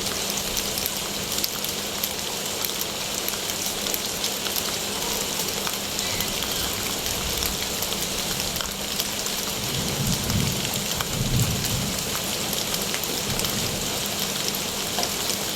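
Steady rain falling on surfaces, a dense even hiss dotted with individual drop ticks. About ten seconds in, a low rumble swells briefly beneath it.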